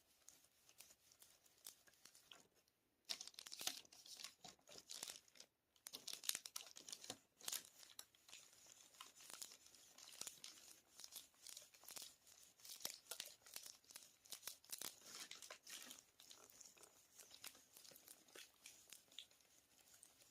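Faint, irregular crinkling and crackling of parchment paper as a clothes iron is pressed and moved over it to fuse plastic Perler beads, picking up about three seconds in.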